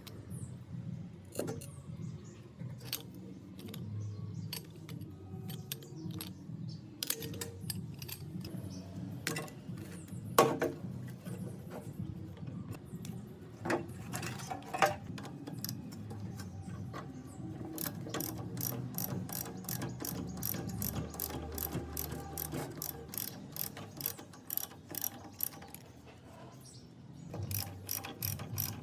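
Clicks and clinks of hand tools working on metal starter-motor parts, turning into an even run of quick clicks, about four a second, in the second half.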